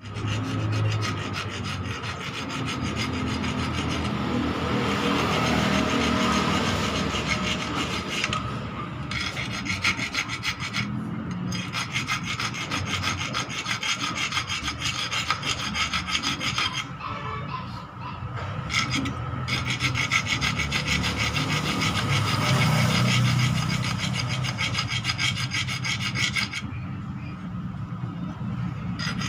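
Rapid rasping strokes of hand filing on the friction lining of a clutch plate being relined. The filing goes on steadily, with a few short pauses.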